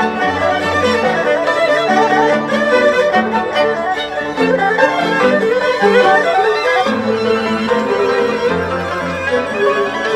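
Chinese traditional orchestra playing loudly, with erhu and other bowed huqin strings carrying a busy melody over low held bass notes.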